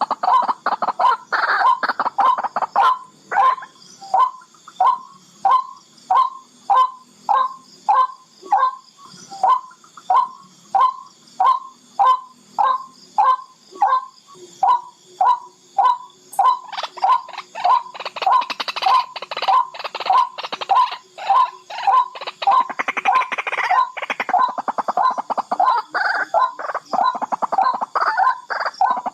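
Barred rail calling: a long series of short, harsh notes, about one every half second, breaking into faster rattling runs near the start and again in the latter part.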